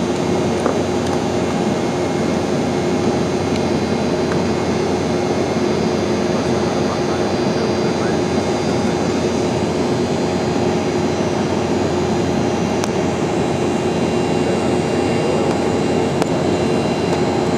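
Airliner's jet engines and rushing air making a steady, even drone, with a few steady hum tones running through it.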